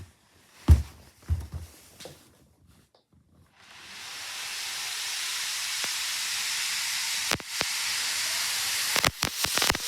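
A few low thumps, then a steady hiss that sets in about three and a half seconds in and holds, with a few sharp clicks near the end.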